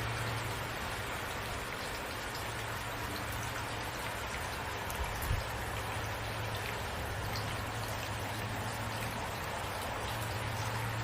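Steady rain falling, with scattered drops ticking on a surface over a low hum, and a brief low thump about five seconds in.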